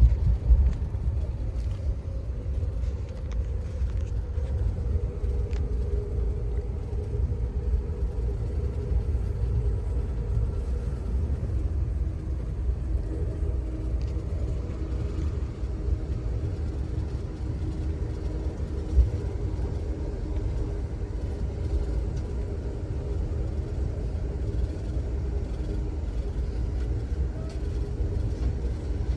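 Amtrak Auto Train passenger train rolling along the track, heard from on board: a steady low rumble with a faint hum. Two brief knocks stand out, one just after the start and one about two-thirds of the way through.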